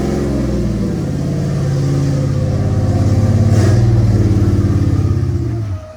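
A motor vehicle's engine running steadily at fairly low revs, swelling a little louder about halfway through, then cutting off abruptly near the end.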